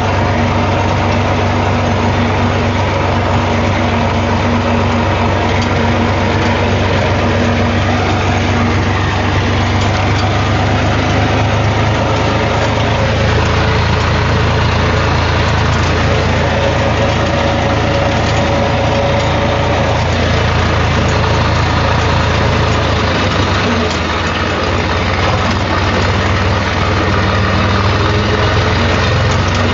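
HMT tractor's diesel engine running steadily with a low, even hum, its note dipping briefly about two-thirds of the way in.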